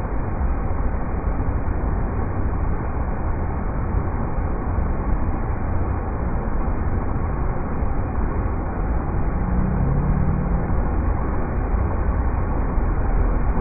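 River rapids rushing steadily, a dense unbroken wash of water noise that is heaviest in the low end.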